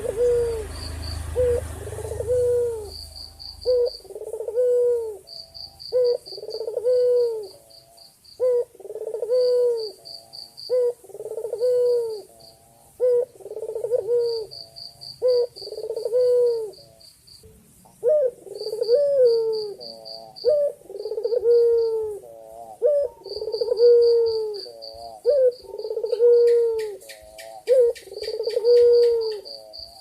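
Male white Barbary dove (ringneck dove) cooing over and over, a steady series of arched coos about one every second or so: a male calling to a female. A high, pulsing insect trill runs behind it.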